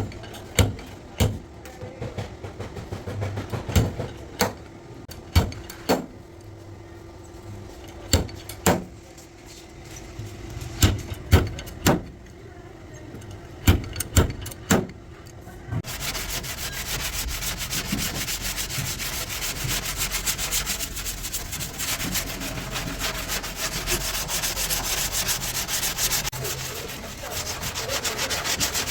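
Irregular sharp knocks on car-body metal for roughly the first half. About halfway through, an abrasive power tool starts a continuous rough sanding on the metal and keeps going.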